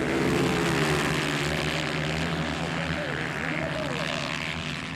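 160cc dirt-bike engines running on the track, a steady engine drone with a few rises and falls in pitch as riders work the throttle, fading slightly near the end.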